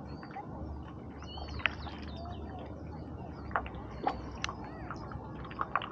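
Birds chirping in short, quick calls, with several sharp clicks scattered through.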